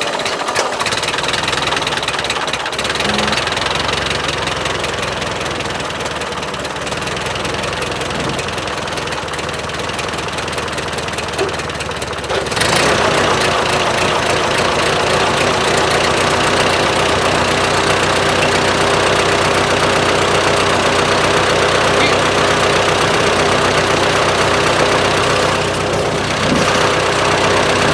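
Ford 8N tractor's four-cylinder flathead engine running, freshly started after sitting through the winter. About halfway through it gets louder and steadier, and it runs pretty good.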